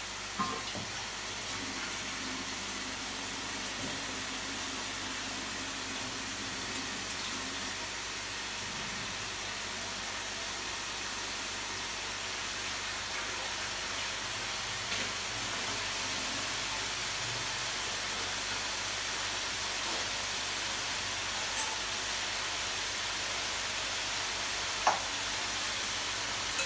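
Chicken pieces sizzling steadily in hot ghee in a kadhai, frying toward light golden brown. A few sharp ticks stand out, twice near the end.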